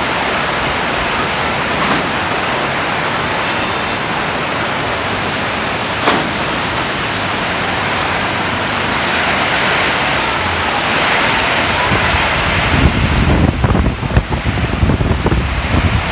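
Heavy rain pouring in a steady hiss, with wind gusting and buffeting the microphone near the end.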